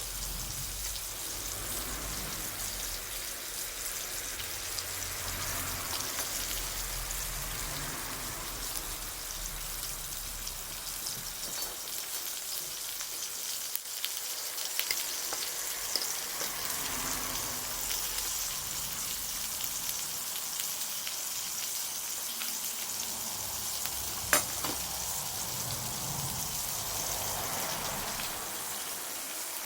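Wood bonfire burning with a steady hiss and scattered small crackles, and one sharp pop late on.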